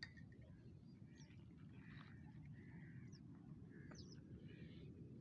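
Faint birds calling in a reedy lakeshore marsh: scattered short, high chirps, a few a second at most, over a low steady rumble.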